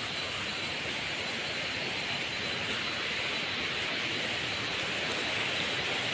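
Steady rushing of fast-flowing water from a rain-swollen stream, an even hiss without breaks that grows slightly louder.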